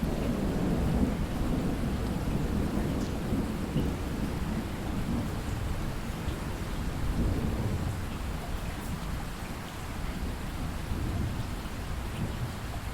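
Heavy rain falling steadily, with a low rolling rumble of thunder underneath that is strongest in the first half and eases toward the end.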